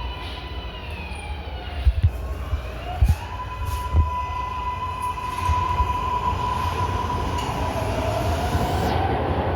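MARTA rapid-transit train running, its electric traction motors whining over a low rumble. The whine falls in pitch over the first two seconds and another rises near the end, with a few sharp thumps from the wheels.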